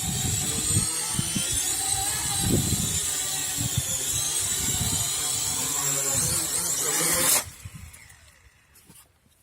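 Syma X8 quadcopter's motors and propellers whining, with gusty wind buffeting the microphone. Everything cuts off abruptly about seven seconds in.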